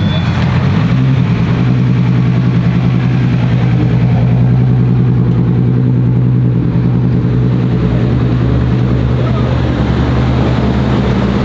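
A car engine idling steadily, a loud even drone that holds one pitch throughout.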